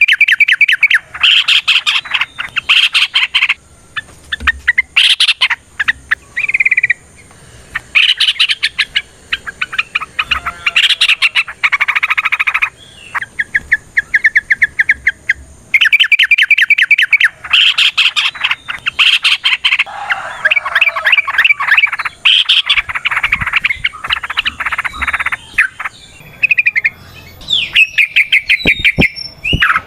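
Yellow-vented bulbul (trucukan) calling in long, fast chattering strings of notes, burst after burst with short pauses between them. These are the long-rolling, combative calls used as a lure to set other trucuk birds singing.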